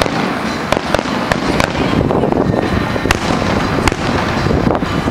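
Fireworks display going off: a dense, continuous rumble and crackle of bursting shells, punctuated by about half a dozen sharp bangs.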